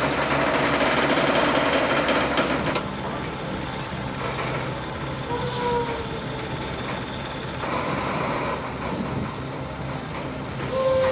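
Heavy-haulage transport vehicle moving slowly: dense engine and machinery noise for the first few seconds, then a quieter steady rumble with a few short squeals.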